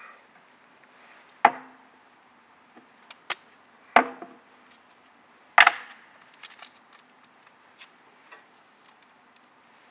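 Wood knocking: three sharp, loud wooden knocks about a second and a half to two and a half seconds apart, followed by lighter knocks and clatter.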